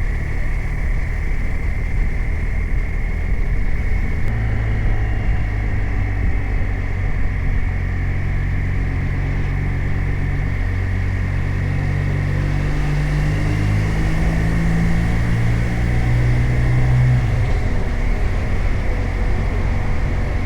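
BMW R 1250 RT's 1254 cc boxer twin running under way on the open road. Its note climbs through the middle as the bike accelerates, then falls back about three-quarters of the way through.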